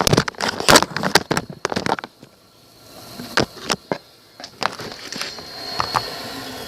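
Rustling and rapid clicking handling noise for about two seconds, then quieter, with a few scattered knocks over a faint rising hiss.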